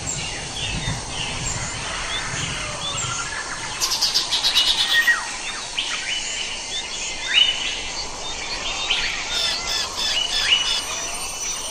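Several birds chirping and calling in a mix of short whistles and trills, with a fast rattling trill about four seconds in and a run of evenly repeated notes near the end.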